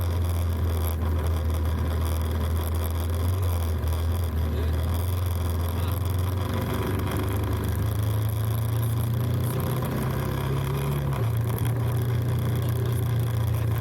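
Motorcycle engine running steadily while riding, its hum rising slightly in pitch about halfway through and dropping back near the end.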